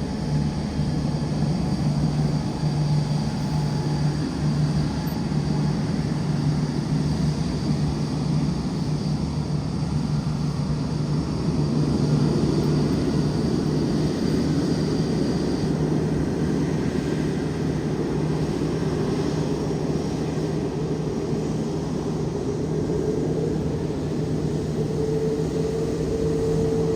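Boeing 787-9 jet engines running at ground idle: a steady low hum under a broad rush, with a faint high whine that drops out a little past halfway and a mid-pitched tone rising slightly near the end.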